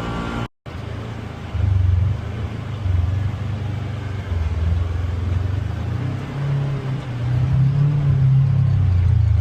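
Polaris Xpedition UTV engine running under varying throttle on a trail, a low rumble that surges and eases and climbs a little in pitch near the end. The sound cuts out completely for a split second about half a second in.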